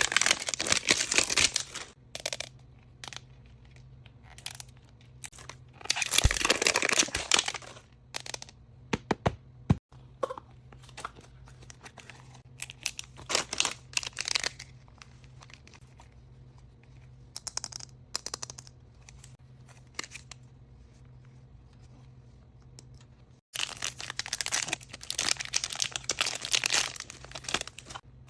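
Wrapping on surprise toy packages being torn open and crinkled in several bursts, with small clicks and taps from handling in between.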